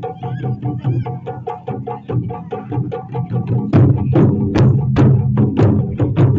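Japanese taiko drums playing a fast, even rhythm of light strikes; about four seconds in the drumming grows into louder, deeper strokes that ring on after each hit.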